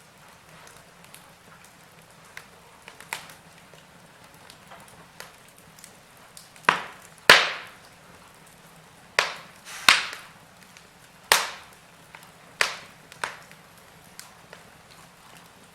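Wood fire burning in a fireplace, crackling with sharp pops that each die away quickly. The pops are sparse and faint at first, then about seven loud ones come in the middle, roughly one a second, before it settles back to faint crackles.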